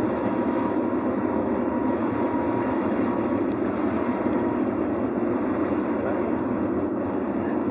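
Airbus A350 cabin noise during takeoff, heard from inside the cabin: a steady, dense rush of engine and air noise with a faint steady whine.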